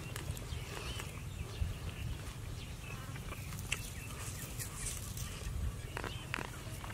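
A person chewing and smacking his lips while eating, with scattered sharp clicks. Birds call in the background, with short chirps about half a second in and again near the end.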